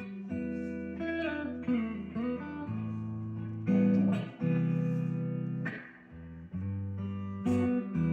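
Guitar being played: plucked notes and chords struck and left to ring, with a few notes bent in pitch about two seconds in.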